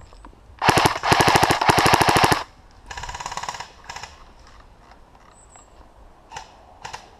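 Airsoft rifle firing a full-auto burst of about two seconds, a rapid, even rattle of shots. About a second later comes a second, quieter burst, then a few scattered single pops.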